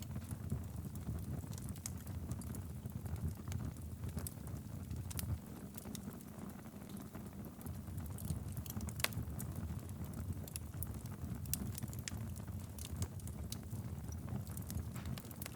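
Wood fire burning in a fireplace: a steady low rumble of flames with scattered sharp crackles and pops, one louder pop about nine seconds in.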